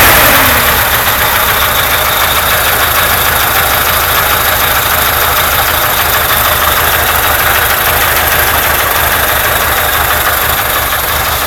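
Air-cooled V4 engine of a ZAZ-968M Zaporozhets (MeMZ-968) dropping back from a rev in the first second, then idling steadily with a rhythmic knock. The owner calls it a nasty knock that appeared without apparent cause after the car stood and was restarted.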